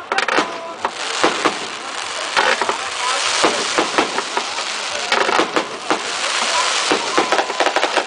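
Fireworks crackling and popping in quick, dense succession over a continuous hissing rush. The rush grows louder about three seconds in.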